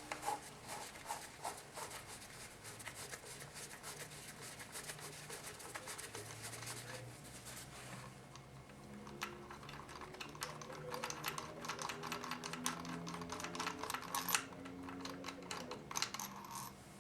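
Small metal transmission parts and bolts clicking and rattling as they are handled, in quick irregular ticks. Underneath, a faint low tune of held notes changes pitch every second or so.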